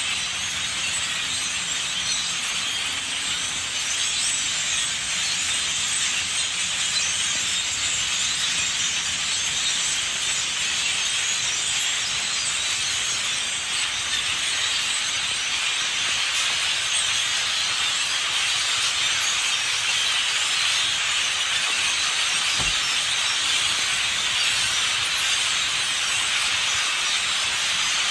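A huge flock of common grackles calling overhead: thousands of birds at once making a very noisy, unbroken din that holds steady.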